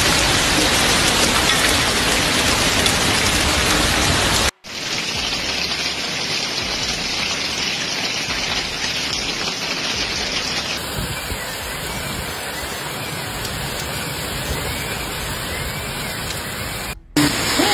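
Heavy rain falling in a steady, dense downpour during a thunderstorm, heard across two pieces of footage that are cut together with a brief gap about four and a half seconds in.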